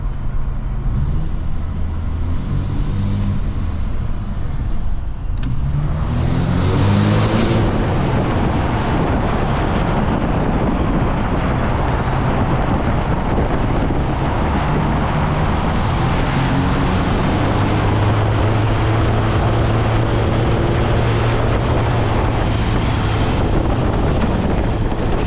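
A road vehicle's engine runs under steady road and tyre noise while driving. Its pitch climbs as it speeds up a few seconds in and again about halfway through, then settles to a steady cruise.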